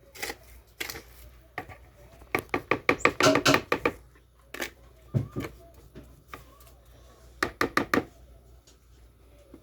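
A series of sharp knocks and clicks from utensils and the bowl being handled at a stand mixer, with a quick run of taps in the middle and four more near the end. The mixer's motor is not running.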